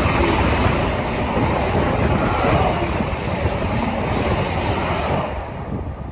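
A train passing, a steady loud rush of rail noise that fades away near the end, with wind buffeting the microphone.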